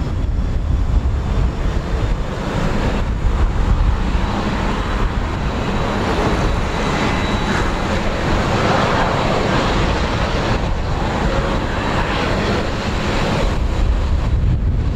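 General Electric CF6 turbofan engines of a Boeing 767-300 running, with a faint high whine early on; the roar swells in the middle and eases near the end. Wind rumbles on the microphone throughout.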